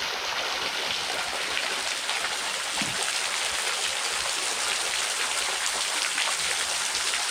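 Waterfall pouring, a steady hiss of falling water.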